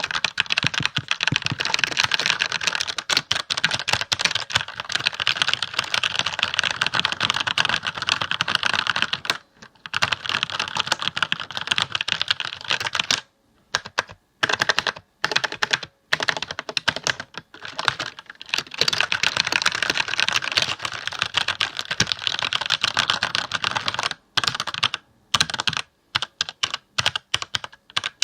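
Computer keyboard being typed on: rapid, continuous keystrokes, broken by a short pause about nine seconds in, slower scattered keystrokes with gaps through the middle, then fast typing again and scattered keys near the end.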